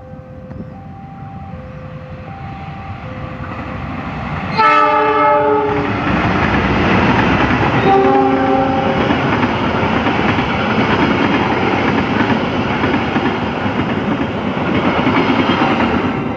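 A level-crossing alarm beeps in two alternating tones for the first few seconds. Then a CC206 diesel-electric locomotive sounds its horn twice, at about four and a half and about eight seconds in, each blast about a second long. The passing train's loud running noise and wheel clatter follow.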